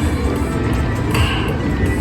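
Electronic slot machine music playing steadily over the continuous din of a casino floor.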